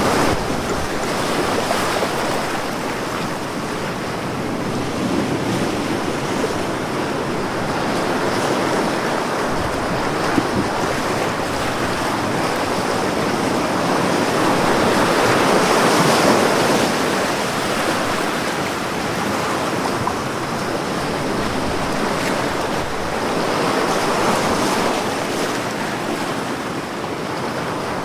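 Ocean waves breaking and washing on a beach in a continuous surf. The swells build and ease every several seconds, with the fullest ones about halfway through and again near the end.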